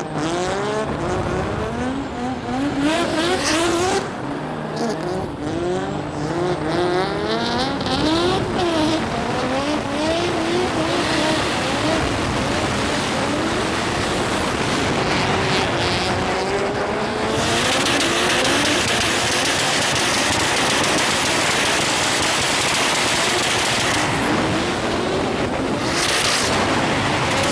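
Drift cars on track: engines revving hard, their pitch climbing and dropping over and over, with tires squealing. About two-thirds of the way in, a steady loud hiss of tire noise takes over.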